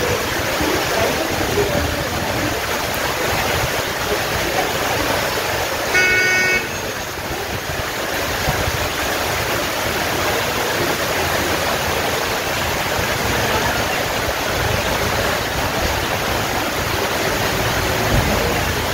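Steady rain hissing, with a short vehicle horn toot about six seconds in.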